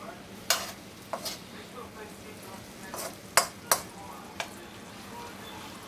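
A utensil scraping and knocking in a frying pan, about half a dozen sharp taps, as a stick of butter is broken up over low heat, with a faint steady sizzle underneath.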